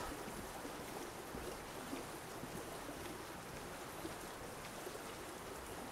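Light rain falling: a faint, even hiss with scattered drop ticks.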